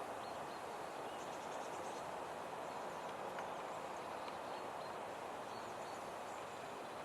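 Steady outdoor rushing noise of a breeze, with faint, brief high bird chirps scattered through it.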